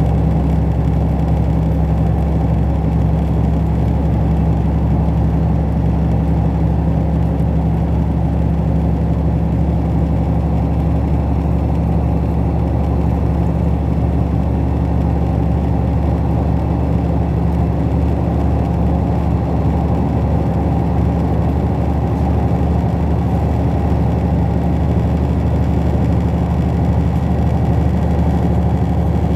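Steady running noise of a Thai express passenger train heard from inside the carriage: an even low hum and rumble that does not change.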